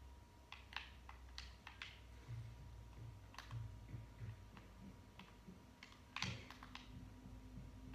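Faint scattered clicks and taps, irregular and a second or so apart, the strongest about six seconds in, over a low steady hum.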